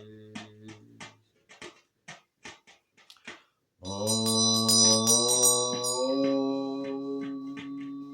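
Instrumental close of a devotional chant: a held organ-like chord stops about a second in, leaving a few soft, irregular drum taps. Near four seconds a loud new sustained chord comes in, shifts about two seconds later and slowly fades while the taps go on.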